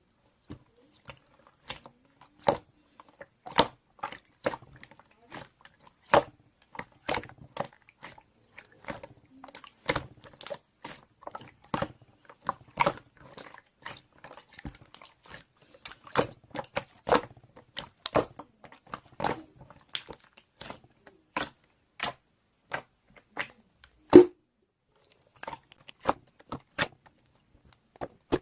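Irregular sharp clicks and taps, one to a few a second, some louder than others, with the loudest about 24 seconds in.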